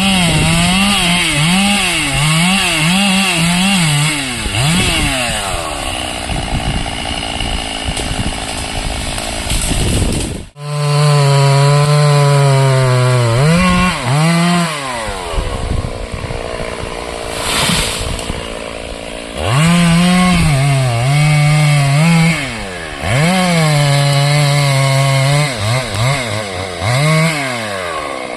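Stihl MS 382 two-stroke chainsaw cutting timber: the engine revs up and down in quick blips, then holds long steady lower-pitched stretches as the chain is pulled down under load in the wood. The sound breaks off abruptly about ten seconds in and resumes at once.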